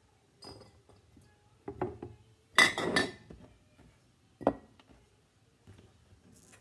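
Glass wide-mouth quart canning jars clinking and knocking together as they are handled, in a few separate knocks, with the loudest clatter about two and a half seconds in and one sharp clink about a second and a half later.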